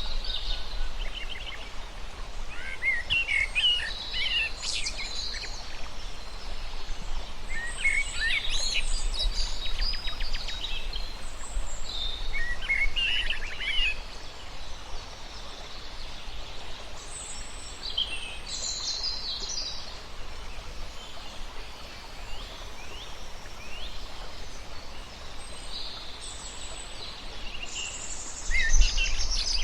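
Several birds chirping and calling in short high phrases, one after another, with a louder call near the end, over a steady low background rumble.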